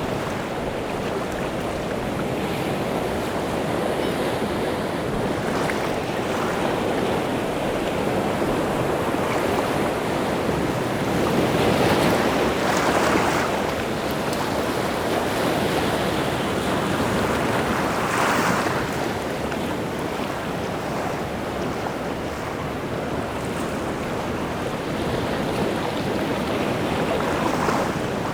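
Rough sea waves breaking on the shore in a continuous wash, with louder breakers about twelve and eighteen seconds in.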